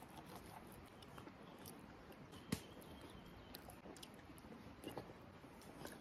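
Near silence: faint background hiss with scattered small clicks, one sharper click about two and a half seconds in.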